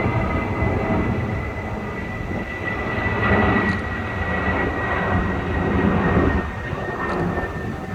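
Jet airliner passing low overhead: a steady, loud rumble with a thin high whine that slowly falls in pitch.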